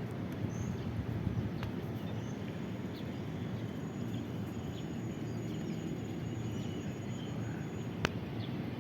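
Steady low outdoor rumble with faint bird chirps over it, and one sharp click near the end.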